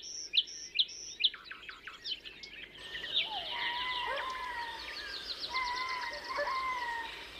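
Birds calling: first a run of short, repeated downward-sweeping chirps, then from about three seconds in a fast, high trill with lower, wavering whistled notes beneath it.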